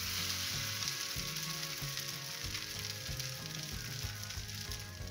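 Banana dosa sizzling in ghee on a hot flat dosa tawa, just flipped over. The sizzle starts sharply and eases slightly after the first second.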